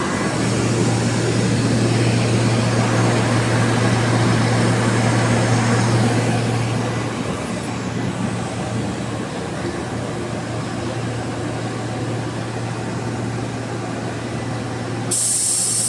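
18.5 kW (25 HP) fixed-speed screw air compressor running steadily, with a strong low hum under its noise. Near the end a loud hiss of air starts suddenly.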